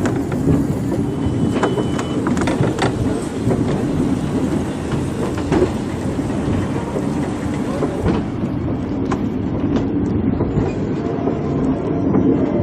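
Train running along the track: a steady rumble with scattered clicks from the wheels and rails.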